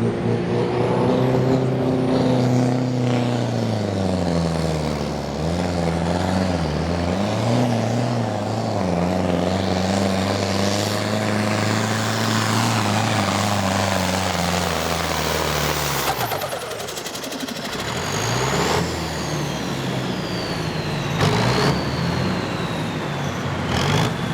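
Turbocharged diesel pulling tractor running hard under load down the pull track, its engine pitch wavering up and down. About two-thirds of the way through the load comes off and the engine note drops, leaving a high turbo whine that falls in pitch. The announcer wonders whether a turbo hose came off at the start of this run.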